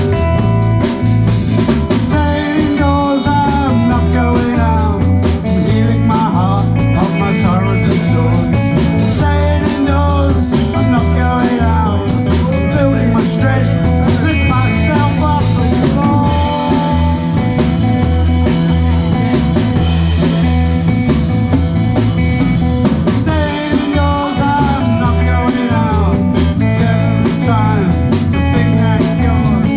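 A live rock band playing at full volume, with electric guitar, bass guitar and a drum kit.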